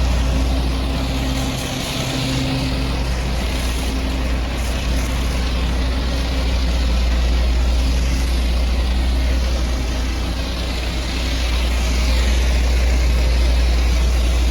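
High-pressure water spraying with a hiss that swells and fades a few times, over a steady low motor hum.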